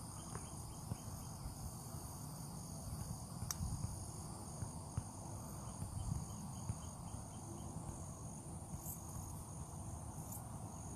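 Insects singing steadily in high, thin tones, one of them in regular short pulses, over a low rumble.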